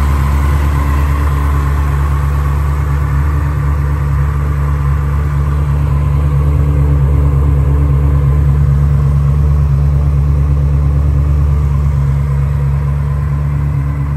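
Ferrari 360 Spider's V8 engine idling steadily, with a slight swell in loudness partway through.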